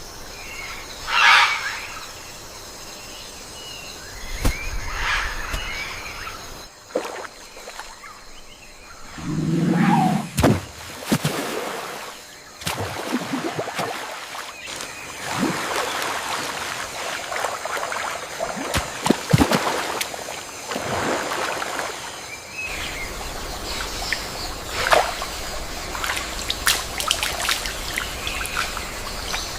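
Rainforest ambience: a steady rush of water with scattered bird calls and chirps, changing character several times.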